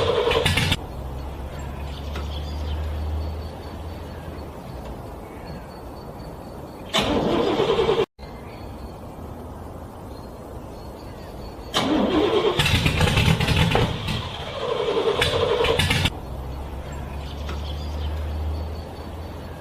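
A car engine cranking over on its starter in the cold in three loud bursts: one ending under a second in, a short one cut off abruptly about 8 seconds in, and a longer one of about four seconds starting some 12 seconds in. Between the bursts the sound is quieter, with a low steady hum.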